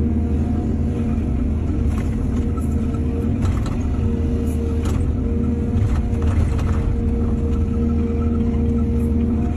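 Diesel excavator engine running steadily with a low rumble, with several short knocks and scrapes in the middle of the stretch and one more near the end.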